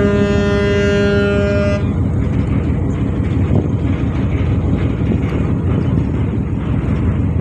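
A ferry's engine and exhaust running with a loud, steady low rumble. A steady pitched tone with several overtones sounds over it for about the first two seconds, then stops.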